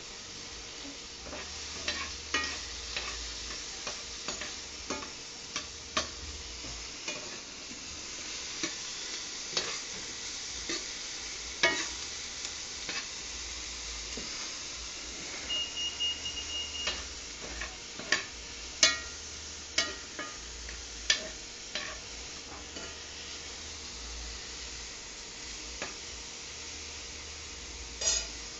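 Chopped chicken sizzling steadily as it fries in a pan, stirred with a utensil that clicks and scrapes against the pan at irregular moments. There is a brief steady high tone a little past halfway.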